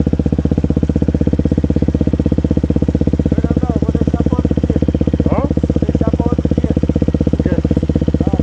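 KTM 250 SX-F's single-cylinder four-stroke engine idling steadily, a fast even pulse with no revving.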